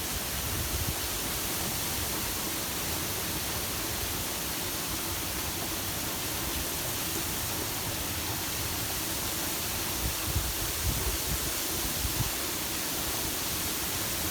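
Steady hiss of tropical-storm wind and rain, with a few low buffets of wind on the microphone about ten to twelve seconds in.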